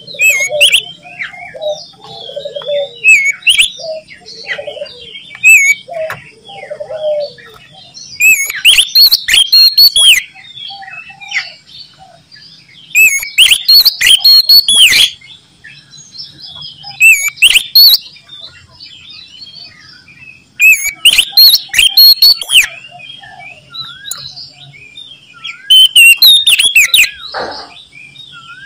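Oriental magpie-robin (kacer) singing loudly in bursts of rapid, high, sweeping whistles and chirps, repeated every few seconds, with quieter warbling between them. Lower calls come in the first several seconds.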